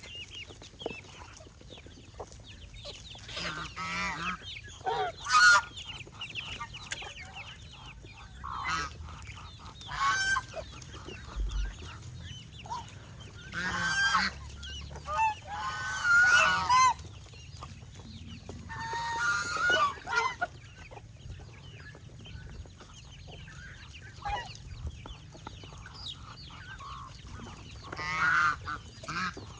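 Domestic geese honking in several separate bouts, loudest about five seconds in and again around sixteen seconds.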